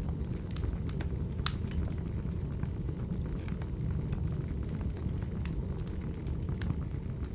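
Wood fire burning: a steady low rumble with scattered sharp crackles and pops, the loudest about a second and a half in.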